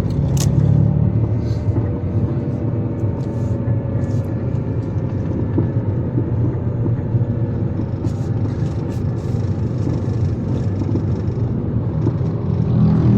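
A motor vehicle running steadily on the road: an engine drone under a low rumble of road noise, with a slight swell near the end.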